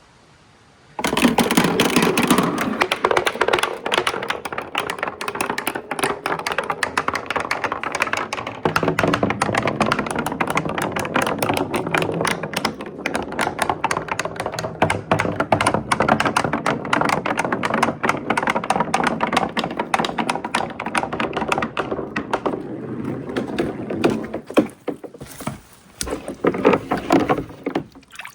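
Many marbles rolling and clattering down the tracks of a marble run: a dense stream of rapid clicks and taps that starts suddenly about a second in and thins out near the end.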